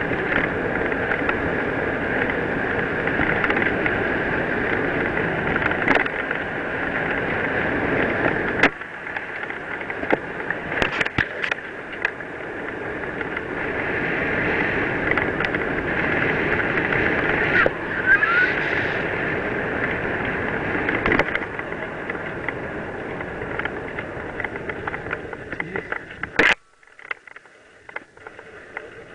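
Wind rush and tyre noise from a mountain bike running down a dirt trail, with scattered knocks and rattles from the bike. The noise cuts off suddenly near the end, leaving a quieter stretch.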